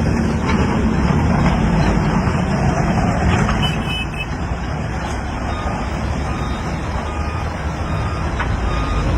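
Heavy vehicle engine running with a low, steady rumble. In the second half a short reverse-warning beep repeats at even spacing.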